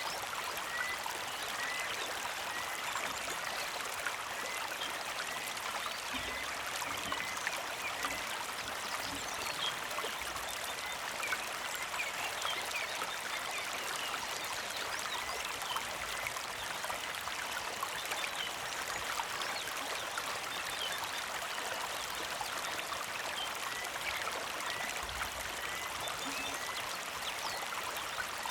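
A small creek trickling and babbling steadily. A bird repeats a short chirp about twice a second near the start, and again near the end.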